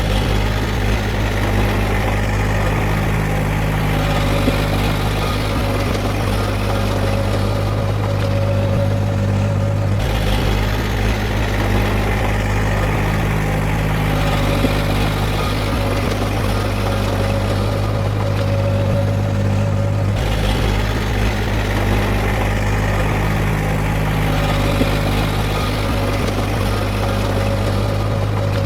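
Heavy earthmoving machine's diesel engine running steadily: a constant low drone with no revving.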